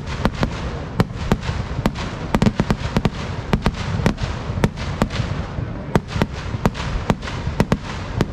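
Fireworks going off in rapid succession: an irregular string of sharp bangs and crackles, several a second, over a continuous low rumble.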